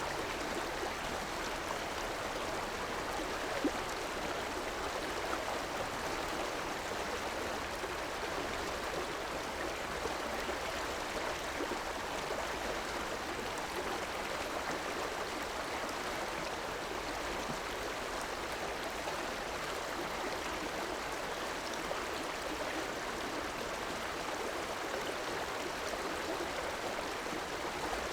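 River water flowing over stones with a steady rushing and gurgling.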